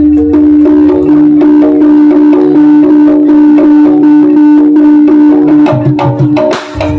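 Live Jaranan ensemble music: hand drums and struck pitched percussion keep a steady rhythm under one long held note. Near the end the held note breaks off, the music dips briefly and comes back in with a bright crash.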